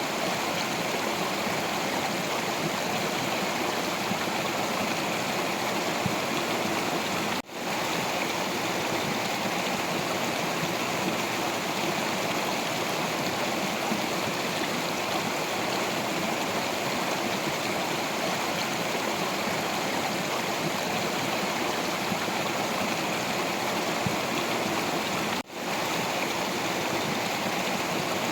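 Stream water rushing and splashing over rocks in a steady, even wash of sound. It cuts out for an instant twice.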